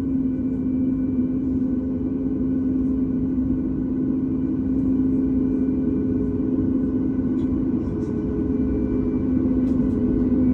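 Steady rumble and hum inside the cabin of a Boeing 737 MAX 9 with its CFM LEAP-1B engines idling after start, one constant low drone over a wash of air noise.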